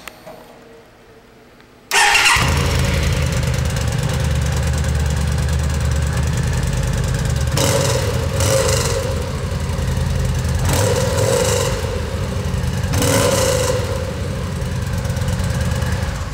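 A 2009 Yamaha V Star 950's air-cooled V-twin starts about two seconds in through its unmodified stock exhaust and runs, revved briefly three times.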